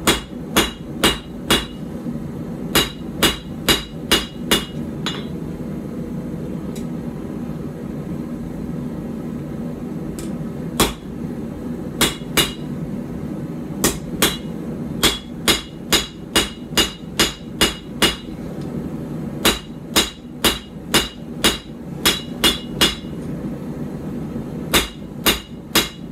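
Hand hammer striking hot steel on an anvil, each blow with a short ring, in runs of about two to three blows a second: forging a puukko knife's tang back to the centre and evening out thick spots. The hammering stops for several seconds about a fifth of the way in, then picks up again. A steady rushing noise runs underneath.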